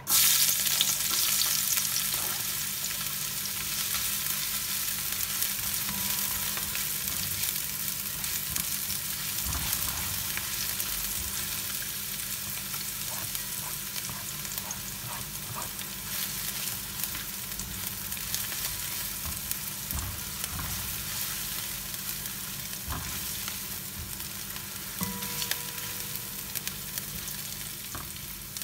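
Chopped onion and garlic dropped into hot olive oil: a loud sizzle that starts suddenly and slowly dies down as the onions fry, with a silicone spatula stirring them and a few light knocks against the pan.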